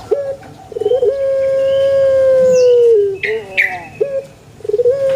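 Puter pelung dove (Streptopelia risoria) singing its long crowing coo: a short note, then a rolling note drawn out into one long held tone of about two seconds that drops at its end. Two short notes follow, and the next long coo begins near the end.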